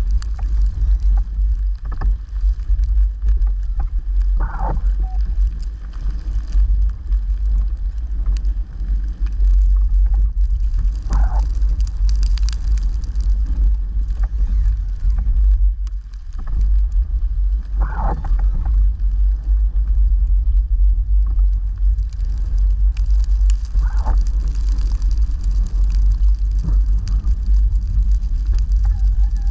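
A vehicle engine running steadily with a deep rumble. A brief higher-pitched sound cuts through about every six or seven seconds, five times in all.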